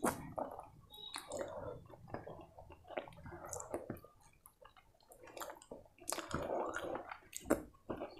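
Close-miked wet chewing and lip smacking of a mouthful of chicken curry and rice, with many sharp irregular clicks.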